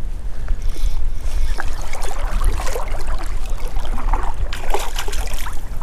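Water splashing irregularly as a hooked smallmouth bass thrashes at the surface during the fight, with sharper splashes about two seconds in and again near the end, over a steady low rumble.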